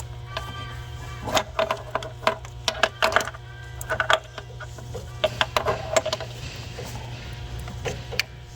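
Irregular sharp metallic clinks and knocks, some in quick clusters, over a steady low hum.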